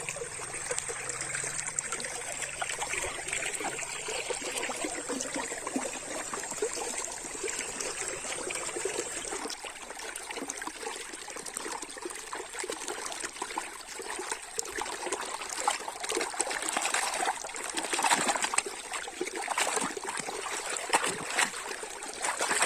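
Water trickling and splashing as muddy plastic toys are rinsed under it, with many small clicks and knocks that come thicker in the second half.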